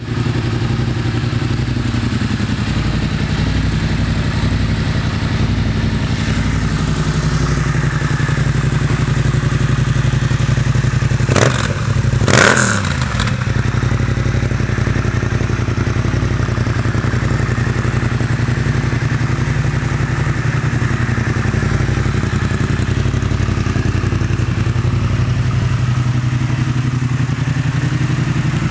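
Yamaha Tracer 700's 689 cc parallel-twin engine running steadily at idle, with two short louder bursts a little under halfway through.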